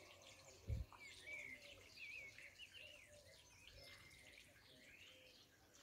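Faint birdsong, several small birds chirping and warbling. A single low thump comes about a second in.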